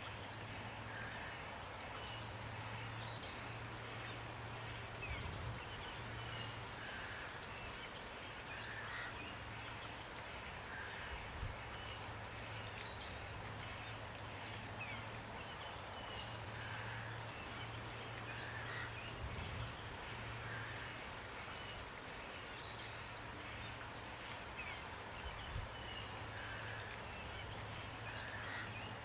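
Steady rain hiss with songbirds chirping in quick high-pitched runs of falling notes, the same bird phrases coming round again about every twelve seconds.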